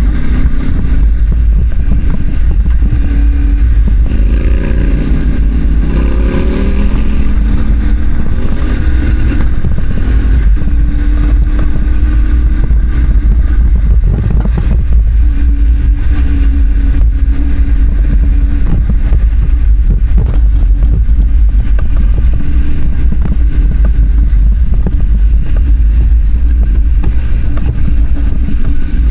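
Parallel-twin adventure motorcycle being ridden hard on a dirt road, with heavy wind and road rumble on the microphone. Between about four and nine seconds in the engine note climbs several times as it accelerates through the gears, then it settles to a steadier cruise.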